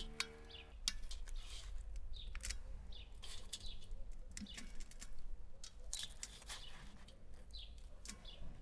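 Garden birds chirping over and over in short sweeping calls, with scattered faint clicks.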